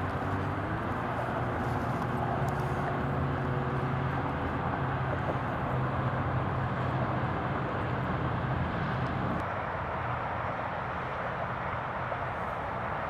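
A vehicle engine running steadily at idle over broad outdoor noise; its hum drops away about nine seconds in.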